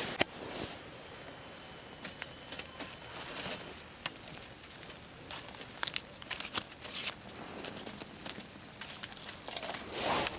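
Aluminium foil being handled and crumpled: irregular crinkling and crackling with scattered sharp clicks.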